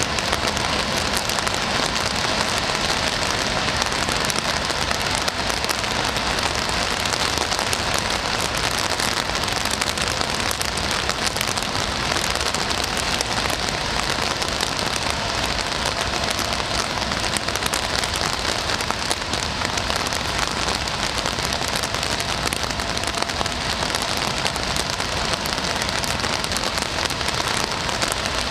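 Steady rain falling, a dense, even patter of raindrops that neither builds nor eases.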